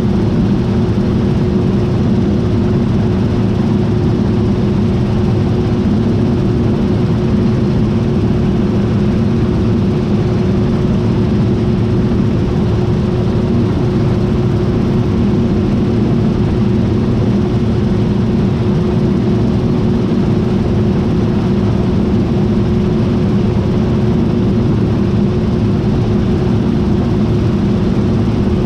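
John Deere T660i combine harvester running steadily, its engine and machinery giving an even, low drone with one held tone that never changes.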